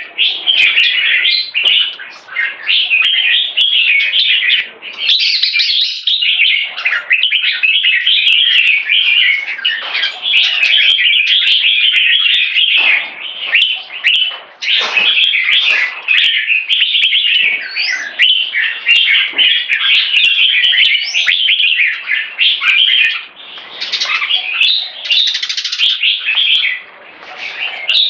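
Red-whiskered bulbul singing almost without pause, a long stream of quick, chattering warbled phrases broken only by a few brief gaps.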